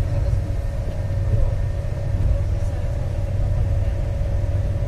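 Steady low rumble of a moving train heard from inside the passenger carriage, with a faint steady hum running through it.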